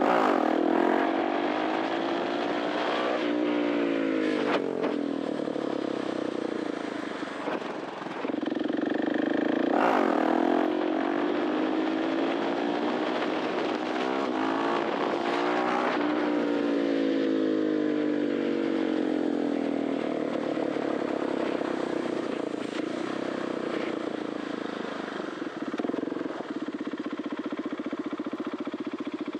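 KTM 690 SMC R's 693cc single-cylinder four-stroke engine through an Arrow titanium exhaust, revving hard and then dropping back in pitch several times. It settles to a lower, steadier note near the end.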